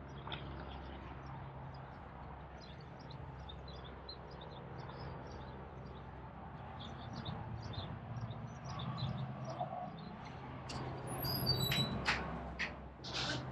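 Small birds chirping in short, scattered calls, louder and sharper near the end, over a steady low hum.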